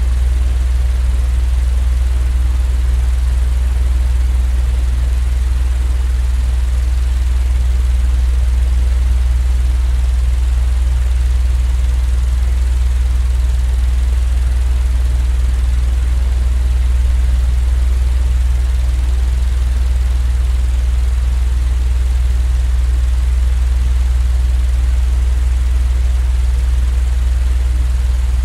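Steady, unchanging low machine hum with a faint hiss over it, a continuous sleep-noise drone.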